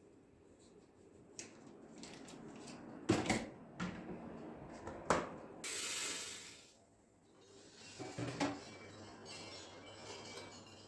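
Objects being handled: a series of light knocks and clicks, with a brief hiss about six seconds in.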